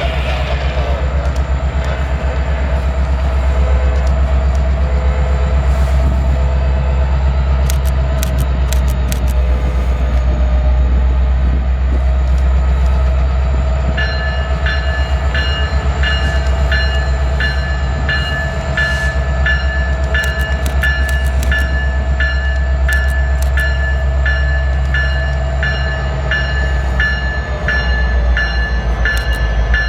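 Train running past with a heavy, steady low rumble and scattered sharp clicks. About halfway through, a bell starts ringing steadily, about one and a half strikes a second.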